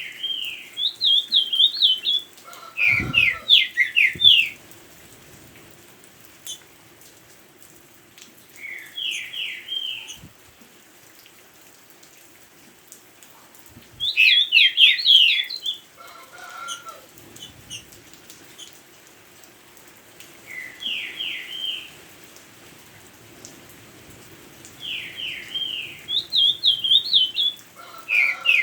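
A songbird singing phrases of quick, sliding high whistled notes, one bout every few seconds, with faint rain in the background.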